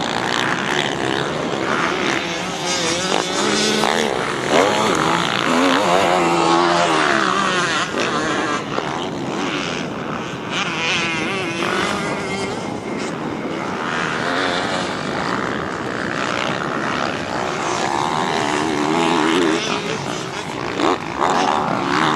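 Motocross bike engine revving hard as it laps the track, its pitch climbing and dropping again and again through the gears and over the jumps.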